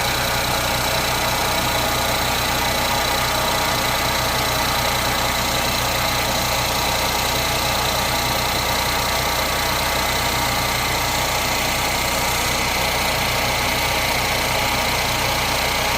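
Ford Fiesta 1.0 EcoBoost three-cylinder engine idling steadily, with a thin steady high-pitched tone running over the engine sound.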